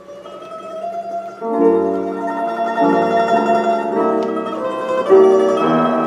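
Live music: a plucked string instrument playing a melody, soft at first and growing louder about a second and a half in.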